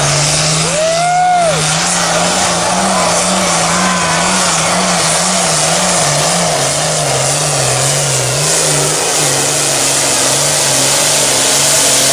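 Competition pulling tractor's engine at full power: a loud, steady roar over a low drone that wavers slightly in pitch, with a brief rising-then-falling whine about a second in.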